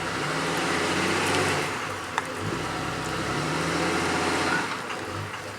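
A motor running steadily under a broad rush of wind or water noise, with one sharp click about two seconds in.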